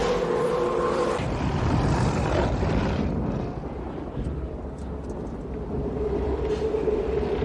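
Strong tornado-force wind rushing and rumbling, easing in the middle and building again near the end. A steady mid-pitched tone sounds at the start and again near the end.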